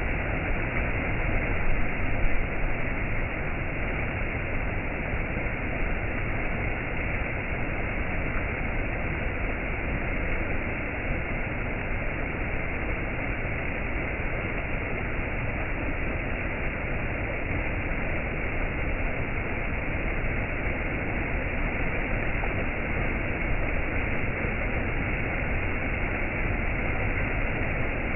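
Waterfall rushing: a steady, even roar of falling water, dull in tone, swelling slightly about two seconds in.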